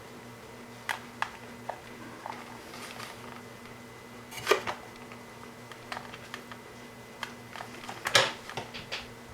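Hands handling and checking the robot's wiring and parts: scattered light clicks and small knocks, with two louder clattering moments about four and a half and eight seconds in, over a faint steady hum.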